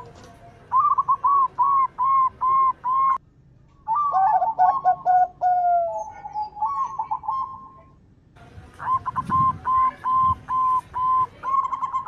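Zebra doves (perkutut) cooing: quick runs of short, repeated notes, in three bursts that stop abruptly about three and seven seconds in.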